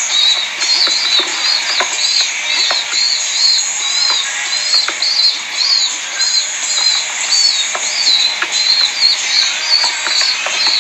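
A bird chirping over and over in a steady run of short, high chirps, about two or three a second, with faint scattered ticks beneath.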